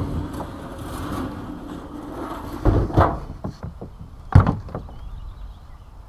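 Wind noise, then a few sharp knocks and thumps, the loudest about four and a half seconds in, with lighter clicks between.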